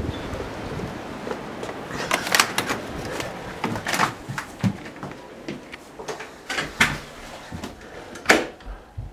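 Clicks and knocks of a door and its latch being handled as someone comes in out of a blizzard, with wind noise on the microphone dying away in the first second. The knocks come irregularly, and the loudest is near the end.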